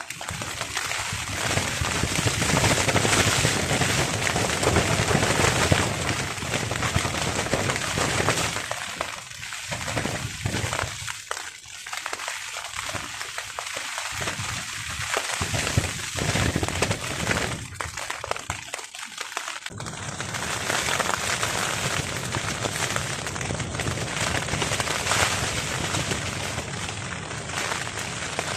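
Heavy rain pelting a tarp in strong wind, a dense crackling patter. The low rumble of the wind drops away for several seconds in the middle and comes back suddenly about twenty seconds in.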